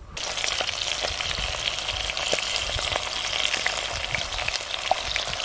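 Food frying in a cast-iron pot over a campfire: a steady sizzle full of small crackles and spits.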